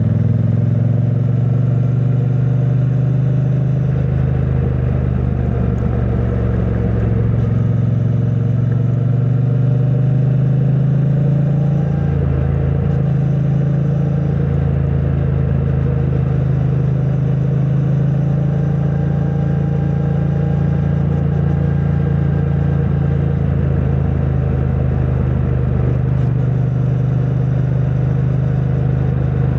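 2022 Triumph Bonneville T100's 900 cc parallel-twin engine running through its stock exhaust on the move. Its pitch rises a little over the first few seconds as the bike pulls, then holds at a steady cruise.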